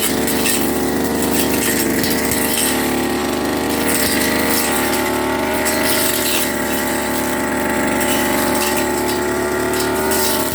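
Firman FGB389FI brush cutter engine running steadily at working speed, its pitch wavering slightly as it cuts through grass.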